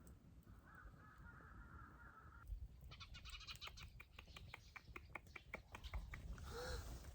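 A bird gives a faint, rapid series of short harsh calls, about six a second, for about three seconds starting some three seconds in.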